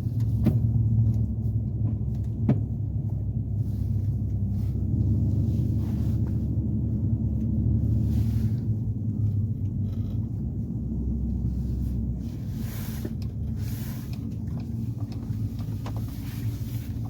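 Steady low rumble of a vehicle's engine and road noise heard from inside the cab, with a few faint clicks.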